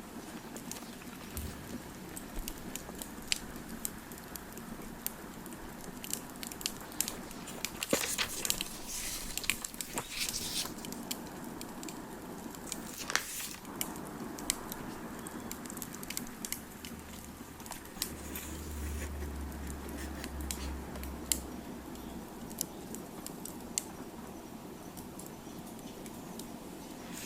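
Wood fire crackling: a steady scatter of small sharp pops over a soft hiss, with denser bursts of crackles about eight to ten seconds in and a sharper pop near thirteen seconds.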